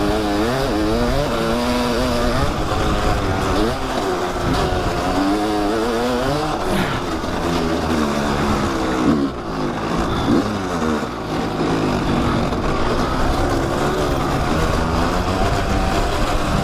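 Kawasaki dirt bike engine being ridden on a trail, its pitch repeatedly rising and falling as the throttle is opened and closed.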